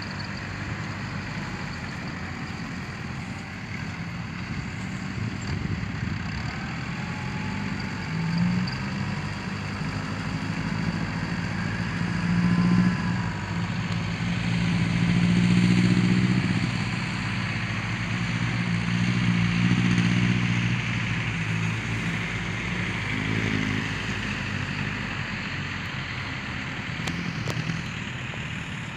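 Diesel dump truck engine running, its revs and loudness rising and falling, loudest about halfway through.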